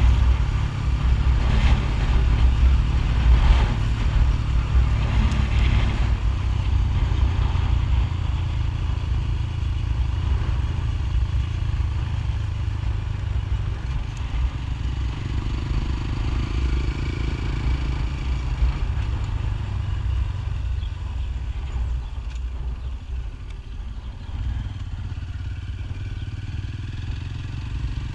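Motorcycle engine running steadily while riding, a continuous low rumble that eases somewhat in the last few seconds.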